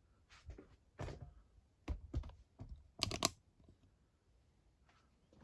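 Scattered light clicks and knocks as jump leads are clipped back on, with a quick cluster of sharper clacks about three seconds in.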